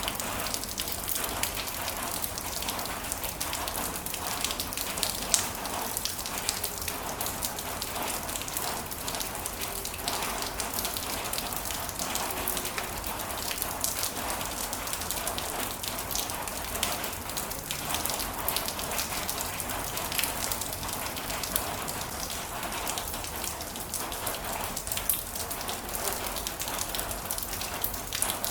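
Heavy rain falling steadily, a dense patter of many individual drops hitting a surface.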